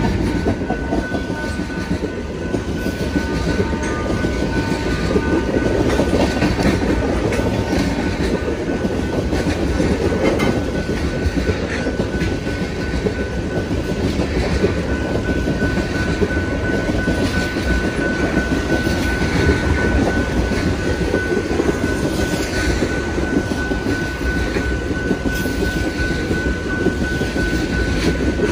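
BNSF train rolling past, its cars rumbling steadily over the rails with a clickety-clack. A thin, steady high ringing tone runs underneath and grows stronger in the second half.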